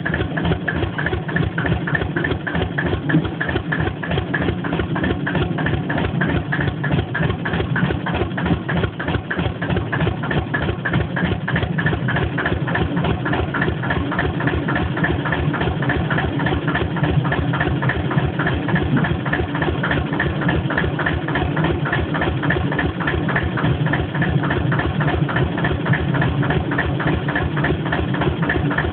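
Deutz F2L514 air-cooled two-cylinder 2-litre diesel in a narrow-gauge field-railway locomotive, idling steadily with an even exhaust beat.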